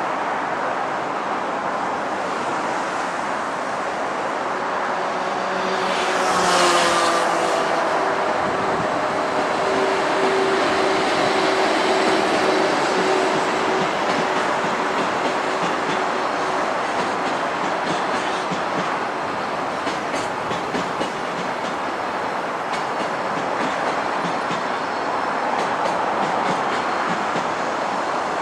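A freight train passes: an EF81 electric locomotive goes by about six seconds in with a louder swell and a steady humming tone. Its container wagons follow, clattering over the rail joints.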